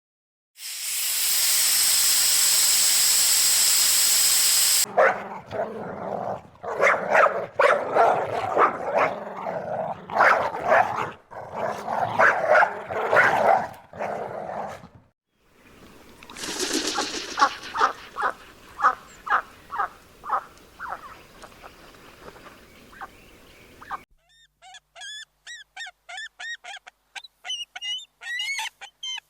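A dog barking repeatedly for about ten seconds, after a few seconds of steady hiss, followed by a run of quicker, fading short calls and then rapid high chirps near the end.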